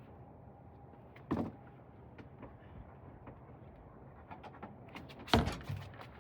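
Two sudden thunks of car body and interior parts being worked loose, a lighter one about a second in and a louder one near the end, with scattered light clicks and rattles between them. This is the sound of trim and fittings being pried and pulled out of the back of a car.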